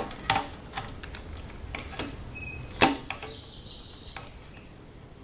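Handling clicks and taps: a run of small sharp clicks and knocks, the loudest a little under three seconds in, with a few short faint high tones in the middle.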